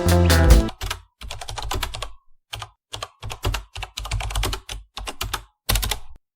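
Squirrel gnawing and crunching a Parle-G biscuit: bursts of rapid, crisp clicking nibbles with short silent pauses between them. Background music stops just under a second in.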